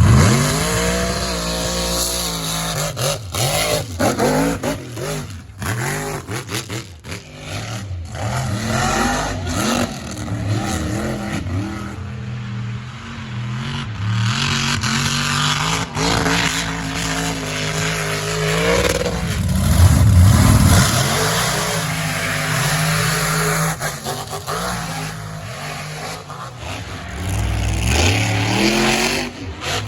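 Mega truck engines revving hard, the pitch climbing and dropping again and again, with the loudest surges right at the start and about two-thirds of the way through.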